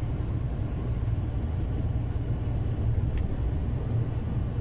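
Steady low rumble of a long-haul truck's engine heard inside the cab, with one faint click about three seconds in.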